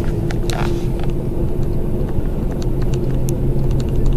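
Car engine running steadily, a low even hum, with scattered light clicks and taps over it.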